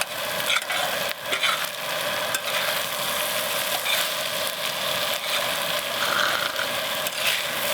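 Meat frying in a pan, its rendered fat sizzling steadily with scattered small pops.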